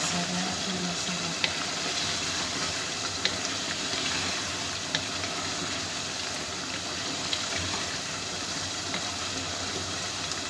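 Chicken frying with a steady sizzle in a pot as it is stirred with a wooden spoon, with a few light knocks of the spoon against the pot.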